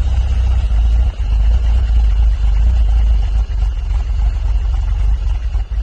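Porsche 996 911's flat-six engine idling just after a cold start at about −20 °C, a loud, steady, deep rumble.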